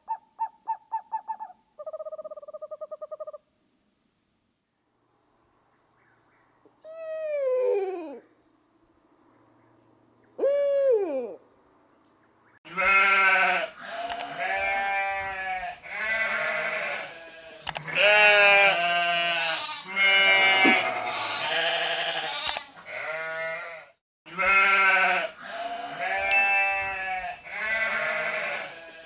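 Sheep bleating over and over, several wavering bleats overlapping, from about thirteen seconds in, with a short break near the end. Before that come a few seconds of pulsing owl calls, then a lull with a faint thin high tone and two falling calls.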